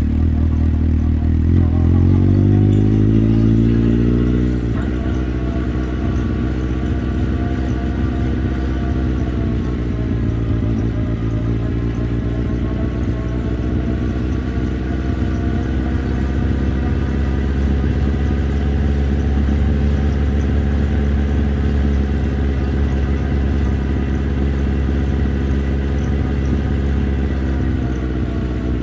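Motorcycle engine heard from the rider's position, rising in pitch as the bike accelerates. The note drops about five seconds in, then holds a steady cruising note that wavers slightly.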